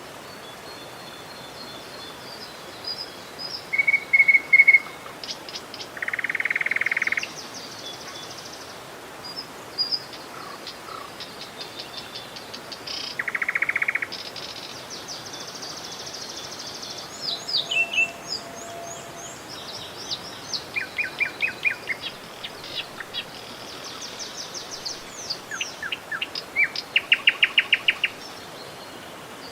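Several wild birds calling and singing over a steady rush of flowing river water: repeated chirps and quick trills, with two longer buzzy calls partway through.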